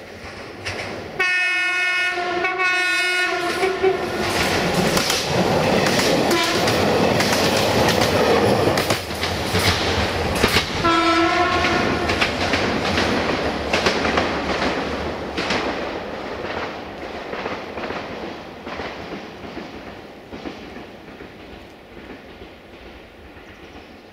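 Diesel multiple unit sounding its horn in two blasts as it approaches, then running past with its wheels clicking over the rail joints and one more short horn blast about ten seconds in. The running noise fades away as the train recedes.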